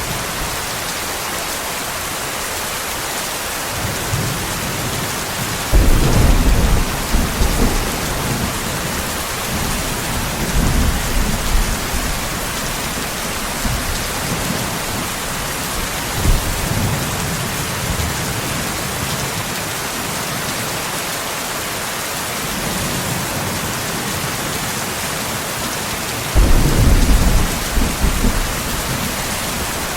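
Steady heavy rain hissing throughout, with thunder: a loud rumble breaks in sharply about six seconds in and rolls on for a few seconds, weaker rolls follow in the middle, and a second loud clap starts suddenly near the end.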